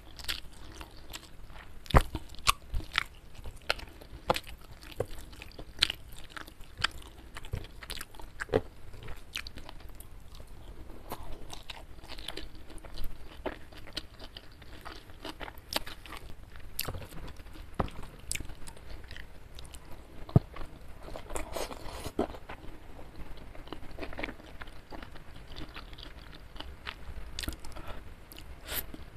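Close-miked chewing of a mouthful of food, with many sharp, irregular crunches and clicks.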